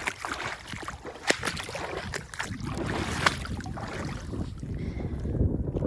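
Wind rumbling on the microphone, with a few sharp clicks of oyster shells knocking together as they are handled, the clearest about a second in and about three seconds in.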